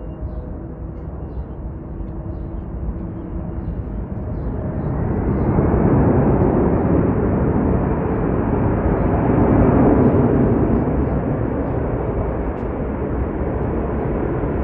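Jet airliner taking off, its engine roar swelling about four seconds in, loudest in the middle, then staying strong.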